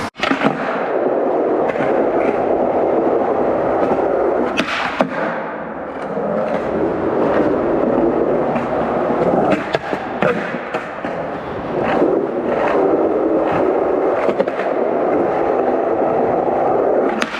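Skateboard wheels rolling steadily over pavement, with sharp clacks of the board every couple of seconds as the rider skates and tries tricks.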